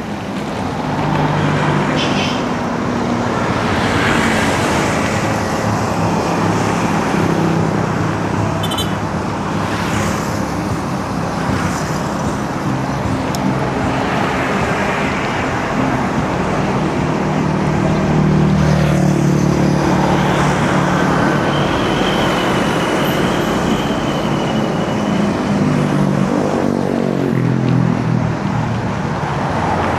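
Road traffic heard from a bicycle: motor vehicle engines running close by, with vehicles passing every few seconds in swells that rise and fall.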